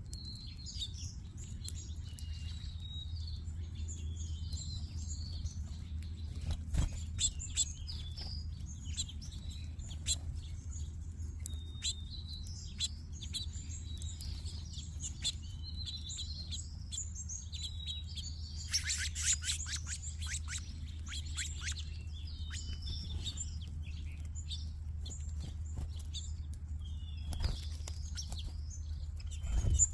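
A flock of small songbirds chirping continuously, many short overlapping high chirps, over a steady low background hum. A brief dense noisy flurry comes about two-thirds of the way through, and a few sharp clicks are scattered across it.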